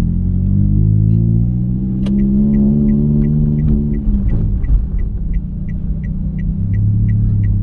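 Toyota Calya's engine heard inside the cabin, its pitch climbing as the car accelerates and dropping away about four seconds in. From about two seconds in, the turn-signal indicator ticks evenly, about three clicks a second, after one sharper click as the stalk is switched.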